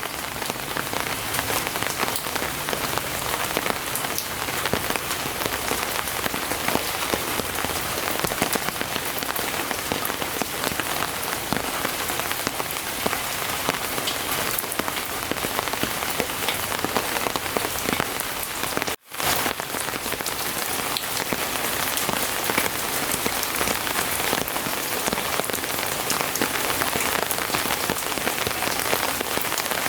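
Steady rain falling, an even hiss of many drops. It cuts out abruptly for a split second about two-thirds of the way through, then resumes unchanged.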